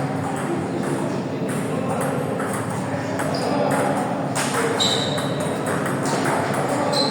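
Table tennis ball clicking sharply off paddles and table in a series of quick hits, a few with a short high ring, over a background of voices chattering.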